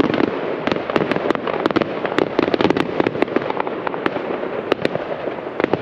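Fireworks going off all around: a dense, continuous run of sharp pops and crackles, several a second, with no single big bang standing out.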